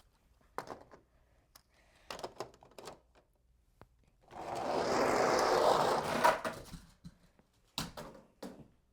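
Two small die-cast monster trucks set in place with a few light clicks and knocks, then released to roll down a toy jump track: a steady rolling rattle of little wheels for about two and a half seconds, followed by a couple of clacks as they land and tumble.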